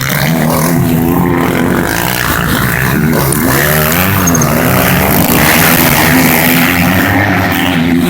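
Several motocross bikes racing, their engines revving up and down as the riders work the throttle through the track, with a steady haze of engine and track noise underneath.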